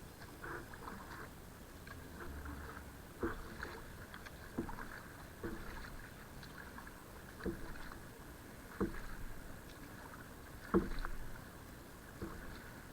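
Kayak being paddled: a short splash or knock from the paddle about every one and a half seconds, over faint water and wind noise, the loudest stroke near the end.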